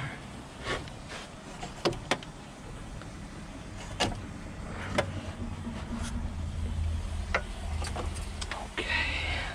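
Scattered knocks and clicks, with a low steady hum coming in about halfway through.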